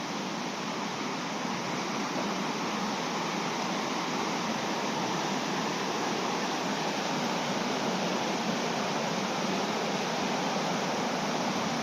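Fast-flowing river running over rocks: a steady, even rush of water.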